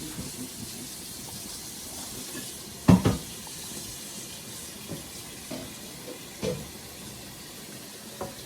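Onions and garlic sizzling steadily in butter in a pan, with a loud knock of a utensil on the pan about three seconds in and a few lighter clinks after.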